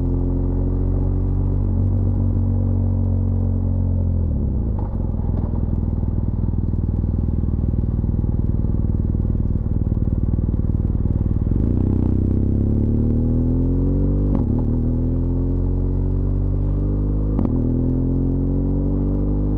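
BMW R1200GS LC Adventure's boxer-twin engine on a descent. The revs fall for the first few seconds, hold low and steady through the middle, then climb from about two-thirds through, broken twice by a quick gear change.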